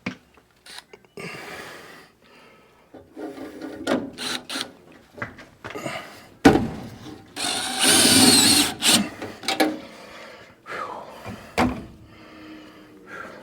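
Handling of sheet-metal furnace parts: scattered knocks and clanks, with a louder rasping scrape about eight seconds in that lasts over a second.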